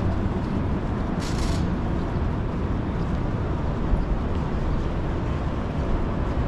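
Steady low rumble of city street traffic, with a brief hiss about a second in.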